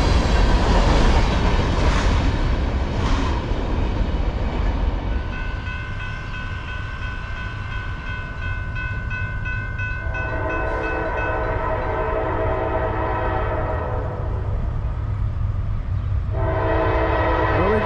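Freight cars rolling past with a steady rumble of wheels on rail. About five seconds in, a grade-crossing bell starts ringing. An approaching locomotive then blows its air horn: one long blast about ten seconds in, and another starting near the end.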